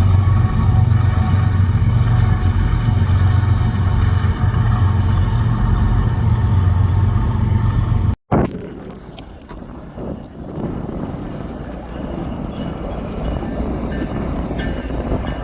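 A diesel locomotive's engine running loud and steady. After an abrupt cut about eight seconds in, a quieter train rumble follows, with faint high ringing tones near the end.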